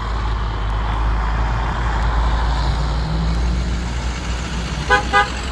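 Heavy 70-ton tow truck driving past, its diesel engine a deep, steady rumble that rises slightly in pitch midway. Near the end come two short high-pitched tones.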